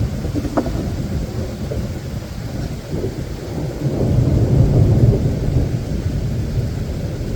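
Steady rain with a low rumble of thunder that swells about four seconds in.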